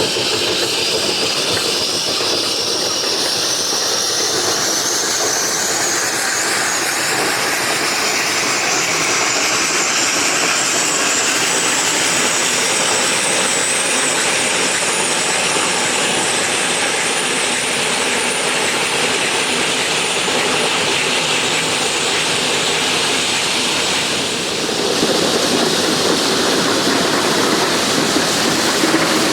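Geared steam logging locomotive working, a loud steady hiss and rush of steam and exhaust, with a slight change about 25 seconds in.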